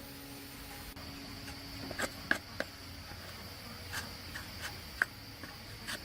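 A handful of short, light clicks and taps from tools or small parts being handled during a chainsaw restoration, over a steady high-pitched background buzz.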